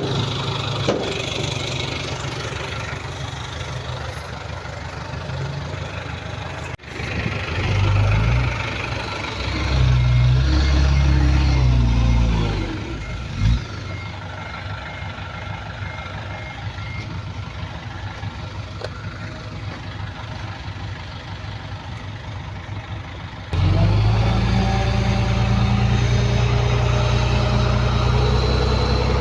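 Heavy diesel engines of earthmoving machinery running. About seven seconds in, the engine revs up, holds loud for a few seconds, then eases back. A louder, steady engine cuts in abruptly near the end.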